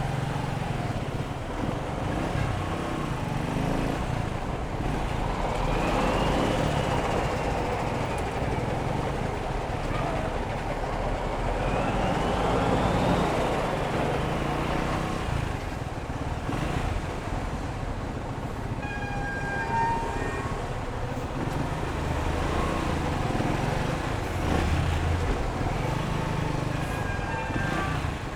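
Motorcycle engine running during a ride in street traffic, its pitch rising and falling twice as it speeds up and slows. Short vehicle horn toots sound about two-thirds through and again near the end.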